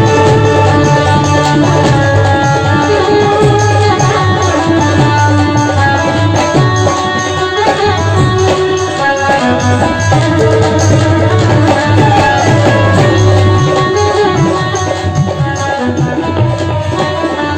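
Instrumental interlude of a devotional bhajan: tabla drumming in a steady rhythm under a held-note melody instrument.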